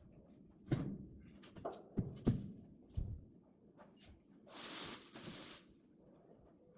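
Split oak firewood being stacked: several dull wooden knocks as logs are set down, then a rustling scrape lasting about a second.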